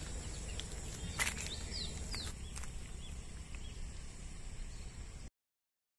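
Outdoor ambience with a few short, high, falling bird chirps over a steady low rumble, and a sharp tap about a second in. The sound cuts out to silence about five seconds in.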